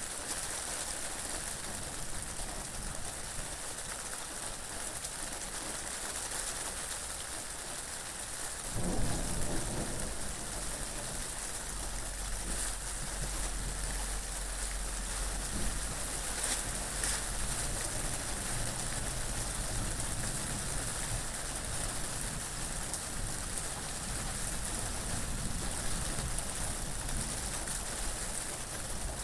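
Steady rain hissing, with a low rumble that sets in suddenly about nine seconds in and carries on more faintly.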